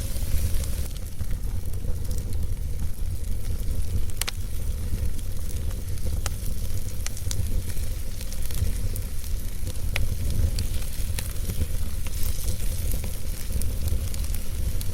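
Wood fire burning in a fireplace: a steady low rumble and hiss of the flames with scattered crackles and pops from the burning logs, a few louder pops among them.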